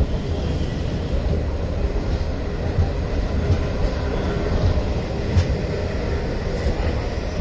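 Passenger coaches of an arriving Indian Railways express rolling past close by: a steady rumble of steel wheels on the rails, broken by a few sharp clacks.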